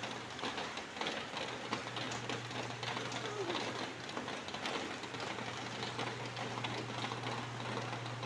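Rain falling: a steady hiss dense with small drop ticks, over a constant low hum.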